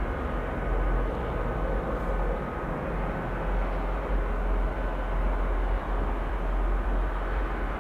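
Steady jet engine noise of a departing Mitsubishi CRJ-900, its twin rear-mounted turbofans at takeoff power, a deep rumble with a faint steady whine.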